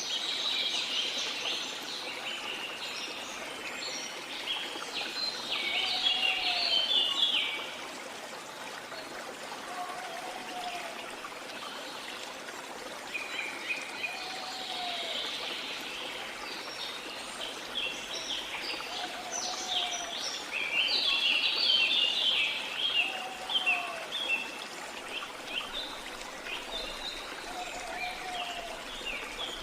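Running water in a rainforest soundscape, with birds chirping and twittering in bursts. A lower, short rising-and-falling call repeats about every three and a half seconds.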